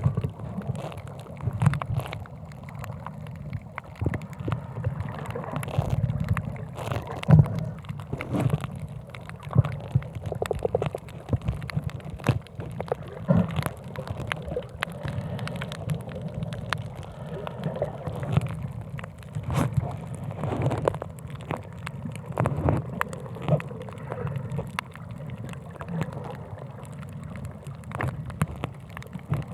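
Muffled water sloshing and gurgling around the camera, with a low rumble and many irregular sharp clicks and pops throughout.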